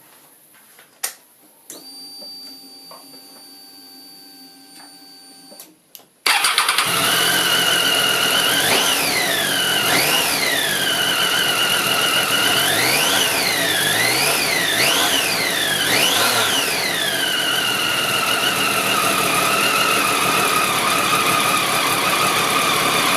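Triumph Tiger 800 inline three-cylinder engine. A click about a second in is followed by a faint steady hum for about four seconds. The engine then starts abruptly and runs, with five quick revs between about 8 and 17 s; a whine rises and falls with each rev, and the engine then settles to idle.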